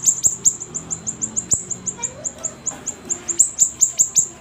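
Siri-siri songbird singing vigorously: a fast, unbroken run of sharp, high chirps, each sliding down in pitch, about eight a second.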